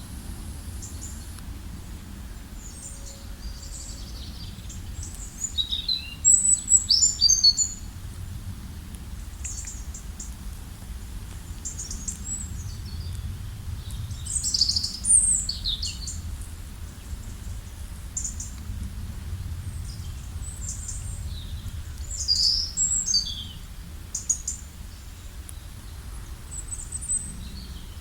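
Wild songbirds chirping and singing in short, high phrases, the loudest flurries coming about six, fifteen and twenty-two seconds in, over a steady low rumble.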